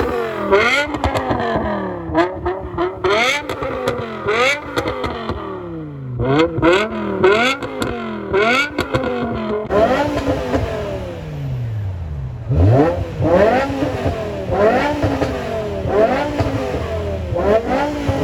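Car engines revving over and over, each blip climbing steeply in pitch and then falling off, in quick succession.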